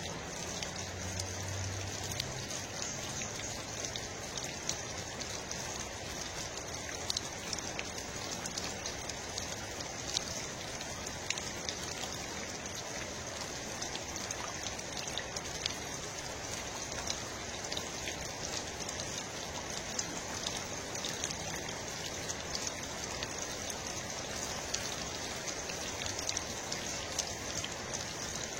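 Steady rain falling, an even hiss scattered with many small, sharp drop ticks.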